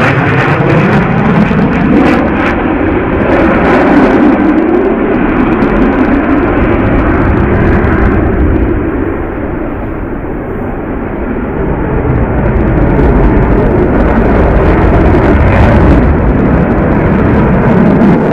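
Jet aircraft flying past at low level, loud engine noise that swells and fades, with falling pitch glides as aircraft pass near the start and again near the end; it eases briefly about ten seconds in.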